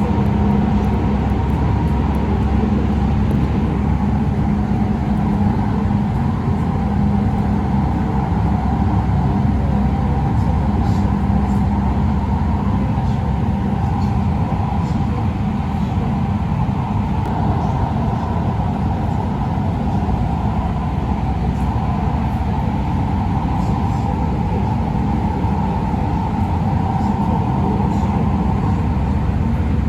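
Steady hum and rumble inside an LA Metro light-rail car, with a constant low drone and a higher tone held throughout.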